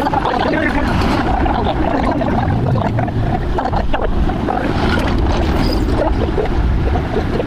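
Steady low rumble of a river ferry under way, mixed with wind noise on the microphone and faint voices.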